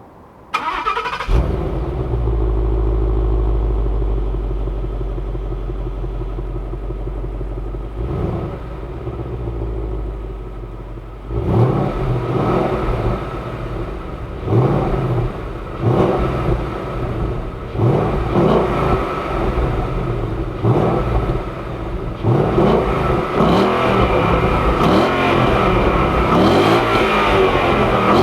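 Ford Mustang GT's 5.0-litre V8 starting up with a loud flare about a second in, then idling as the revs settle. From about halfway it is revved in short blips about once a second, and near the end it is revved harder and more continuously.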